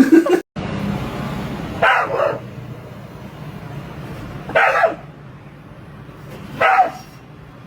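A dog barking three times, about two seconds apart, over a steady background noise.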